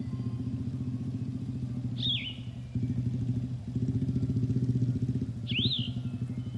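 A small engine running steadily close by, its pulsing drone dipping and picking up again a few times. A bird gives a short chirp twice above it.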